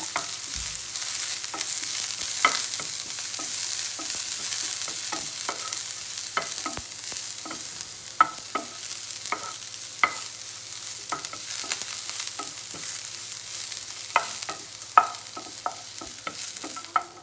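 Garlic and onion sizzling in hot olive oil in a frying pan while being stirred, the utensil clicking and scraping against the pan every second or so. The sizzle drops away suddenly at the very end.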